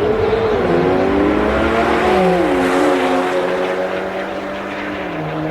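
Sports-car engines held at steady revs, several engine notes sounding at once, each stepping down in pitch now and then.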